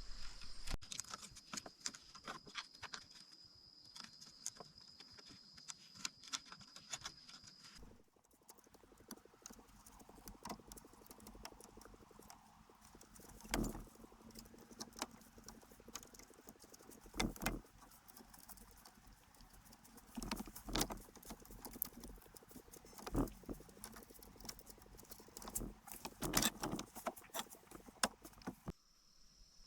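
Irregular knocks, taps and clatter of hand work, with louder clusters of knocks now and then. A steady high insect drone runs behind them for the first eight seconds and returns at the very end.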